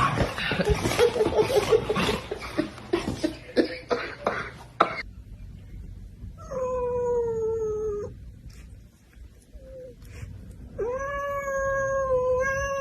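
A domestic cat gives two long, drawn-out yowls: the first about six and a half seconds in, sliding down in pitch, the second a few seconds later, rising then held. Before them come several seconds of dense, mixed noise.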